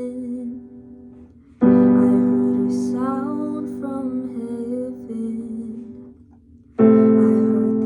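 Slow worship song on piano: a sustained chord struck about one and a half seconds in and another near the end, each fading away, with a voice singing a wavering melody between them.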